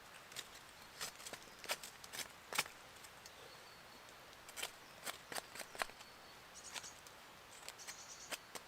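Footsteps on woodland floor litter: irregular light snaps and crackles of twigs and dry leaves, with faint bird chirps near the end.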